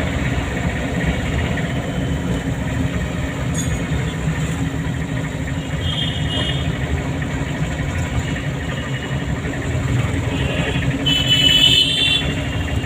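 Car engine running and road noise while driving, a steady low rumble. Brief high-pitched beeping tones cut in about six seconds in and again, louder, near the end.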